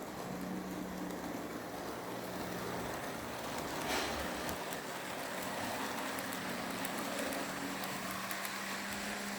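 HO scale model locomotive running along the layout's track: a steady motor hum with the rush of wheels on rail and light clicks as it passes rail joints. One sharper click comes about four seconds in.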